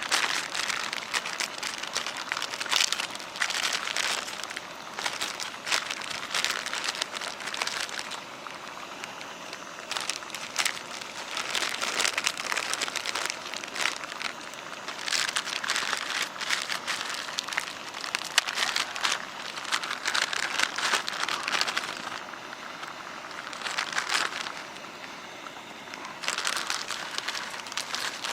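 Crinkling and rustling of handled material in irregular bursts a few seconds long, with short quieter pauses between them.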